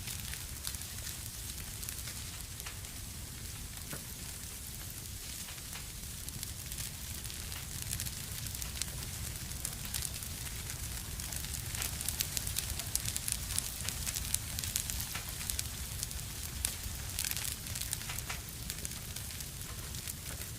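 Fire crackling in a fireplace: a steady low rumble and hiss with many sharp pops and snaps, which come thicker about midway through.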